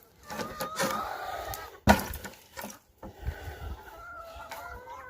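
Chickens calling and clucking, with one loud, sharp wooden knock about two seconds in and a few lighter clicks.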